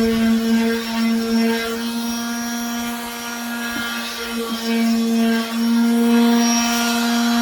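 Electric power sander running steadily on a wooden table, its motor hum dipping slightly in loudness as the pressure on it changes.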